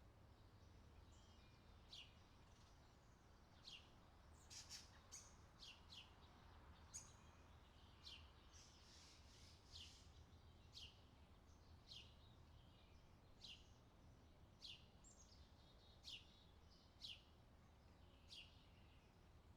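Faint birdsong: short chirps that sweep quickly downward in pitch, repeated about once a second, over a low steady rumble.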